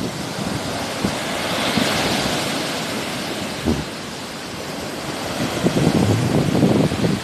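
Sea waves washing on the shore, with a hissing swell about two seconds in that fades away. Wind buffets the microphone in low gusts near the start and again toward the end.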